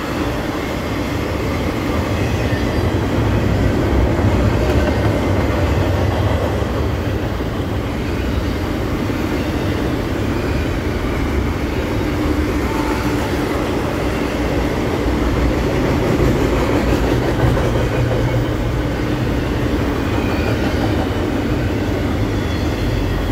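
Double-stack container cars of a long intermodal freight train rolling past at speed: the steady noise of steel wheels running on the rails.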